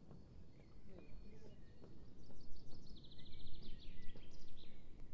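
Songbirds singing, with a fast, even trill about three seconds in and scattered chirps around it, over a steady low rumble.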